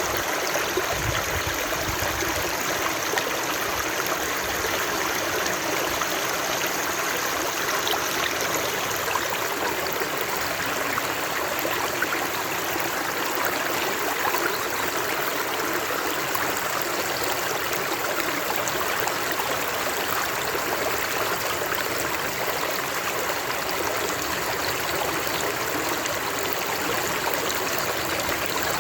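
Water flowing in a stream, a steady rushing and burbling that does not change.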